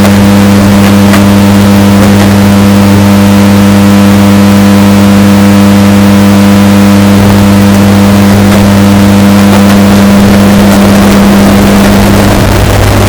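Washing machine running with a steady, deep hum, bass-boosted to the point of heavy distortion and very loud throughout.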